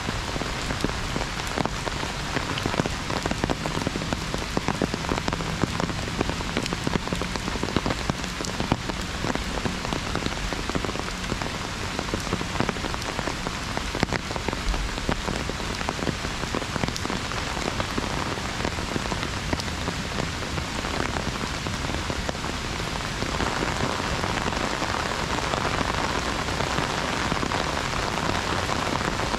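Heavy rain pattering on an umbrella overhead: a dense, steady hiss of countless drop-hits. About three-quarters of the way through it thickens into a fuller, more even hiss.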